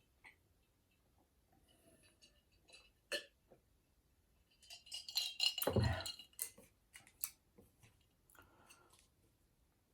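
Chopsticks clicking and clinking against the noodle cup and dishes, scattered sharp clicks with a louder cluster of clatter about five to six seconds in, along with faint eating sounds.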